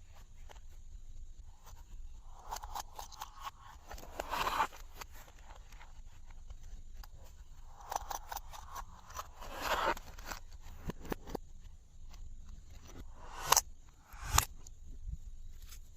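Hands kneading and stretching glossy slime: sticky crackling clicks and soft squelches, with two sharper pops about two-thirds of the way through.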